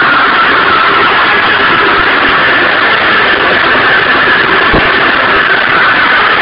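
Stels Arrow scooter engine running with a loud, dense mechanical noise, the knocking and rattle that stayed after its scored piston was replaced with a Malossi one; the crank and bearings were judged fine. One low thump a little under five seconds in.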